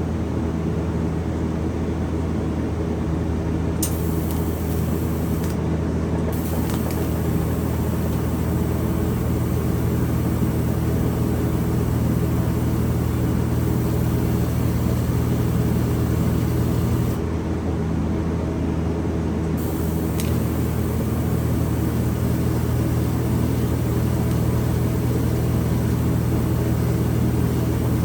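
Electric welding arc sizzling in two long runs, breaking off for a couple of seconds in the middle, over the welder's steady electrical hum, as tack welds are laid on an exhaust pipe joint.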